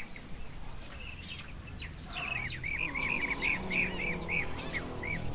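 Bird calling: a rapid run of short arched chirps, several a second, growing busier about two seconds in.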